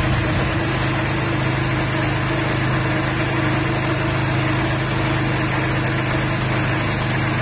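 Crawler walnut shaker's Mitsubishi engine running at a steady speed, an even mechanical hum with no change in pitch or level.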